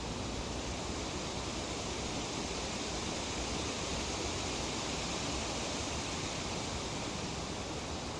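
Breeze rustling through tree leaves: a steady, even hiss that swells a little about halfway through.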